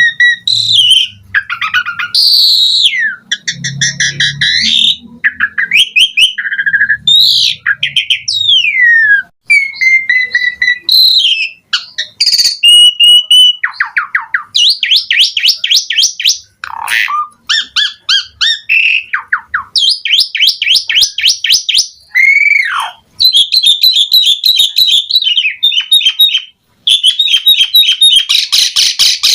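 Jalak suren (pied starling) singing a loud, varied song: clear whistles, swooping rising and falling notes and fast chattering rattles, phrase after phrase with short breaks.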